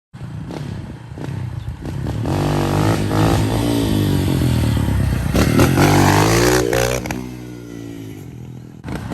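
Loud motor vehicle engine revving: the pitch climbs to a peak about six seconds in, then falls away, and a second loud burst of engine starts near the end.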